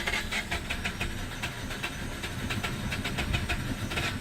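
Mazda RX-8's 13B rotary engine turning over on the starter without firing: an even, rapid run of cranking pulses. The compression is gone, typical of blown apex seals.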